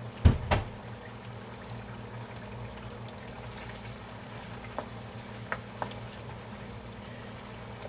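Potato wedges frying in hot oil in a pan, a steady sizzle. Two loud knocks come about a quarter second apart near the start, then a few light clicks of a slotted spatula against the pan as the fries are stirred.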